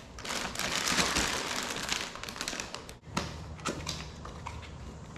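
Plastic packaging rustling and crinkling as parts are handled and unwrapped from a box, then a few sharp taps and knocks in the last couple of seconds.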